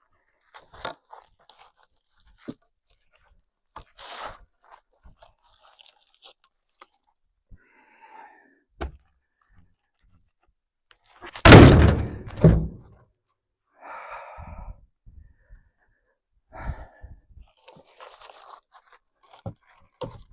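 Logs being handled and loaded: scattered knocks, scrapes and crunches, with one heavy thud of wood dropping a little past the middle.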